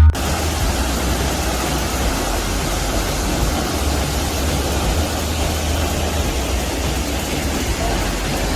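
Waterfall with heavy flow crashing down onto rock: a steady, unbroken rush of falling water with a low rumble underneath.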